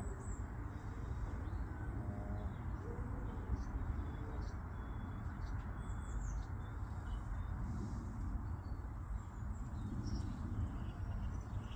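Small birds chirping now and then, with quick high falling calls, over a steady low rumble.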